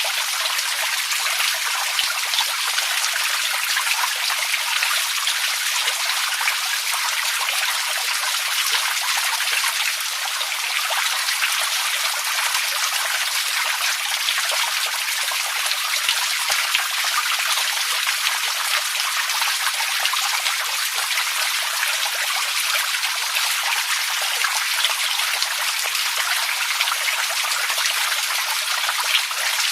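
Steady running water: a dense, even splashing and trickling made of many small drips and splashes.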